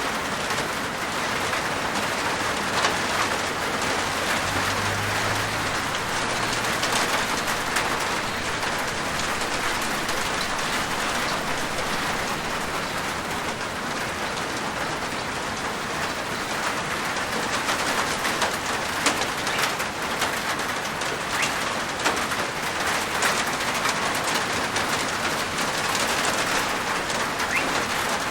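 Steady rain falling on a rooftop, a continuous hiss dotted with many separate drop taps.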